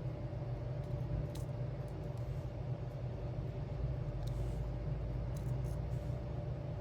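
Steady low background hum with a few faint, short ticks, typical of a diamond painting pen tapping resin gems onto a sticker sheet.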